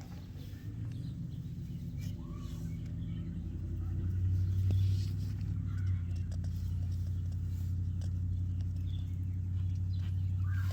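A steady low hum that grows louder about four seconds in and then holds level, with faint scattered ticks above it.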